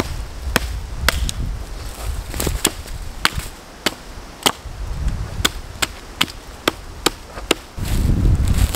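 Repeated sharp chopping strikes, spaced irregularly at about one or two a second. Low rumbling wind noise comes in near the end.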